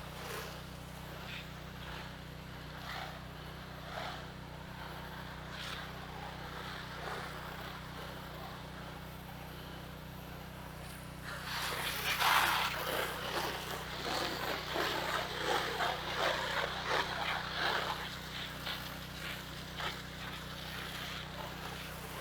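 Pressure washer running with a steady engine hum, and the soft-wash spray hitting the house siding, a rushing hiss that grows louder and uneven from about halfway through.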